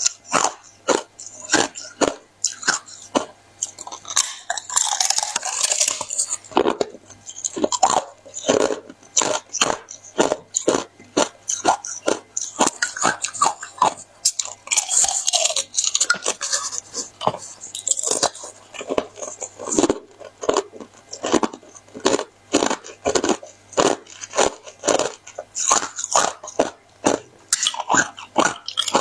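Hard ice being bitten and chewed close to the microphone: a rapid run of sharp, crisp crunches, several a second. Twice the crunches run together into a longer gritty crumbling as the ice is ground between the teeth.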